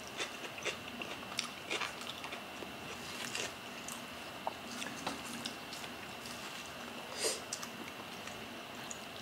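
Close-miked eating sounds: scattered wet clicks and smacks of chewing and of fingers picking at steamed red snapper and rice, with one louder smack about seven seconds in.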